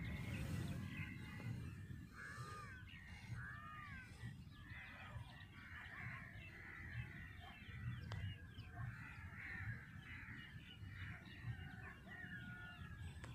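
Many birds calling at once, a steady mix of short chirps and arched calls, over a faint low rumble.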